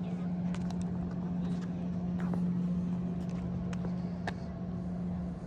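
A motor running with a steady low hum, with a few faint clicks scattered through.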